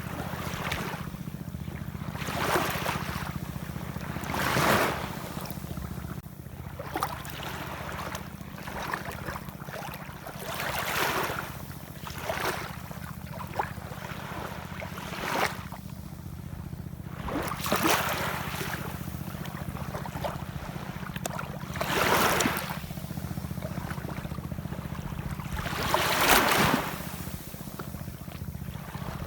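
Ocean waves breaking and washing in, one swell every few seconds, over a steady low rumble.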